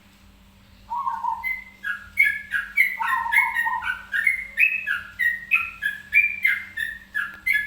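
A songbird singing: starting about a second in, a quick, unbroken run of short whistled notes that jump back and forth between lower and higher pitches.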